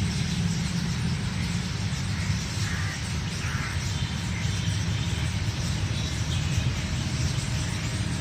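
Pakistan Railways Tezgam express train passing slowly through a station: a steady low rumble of coaches rolling along the rails.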